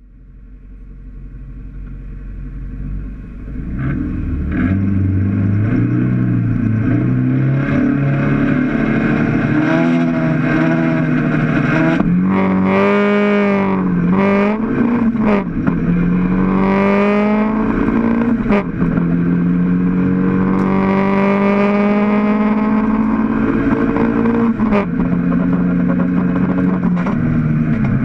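Mk1 Toyota MR2 race car's mid-mounted four-cylinder engine heard from inside the stripped cabin during a race start, pulling hard. Around the middle the pitch climbs and drops back several times in quick succession as it shifts up through the gears, then it runs steadily at high revs.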